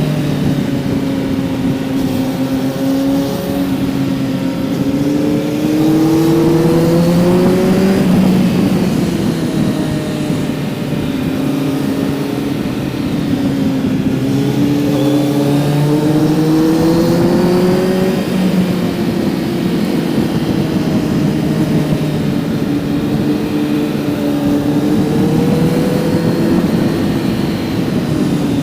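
Kawasaki Z900's inline-four engine running under way, its pitch climbing several times as the throttle opens and falling back in between.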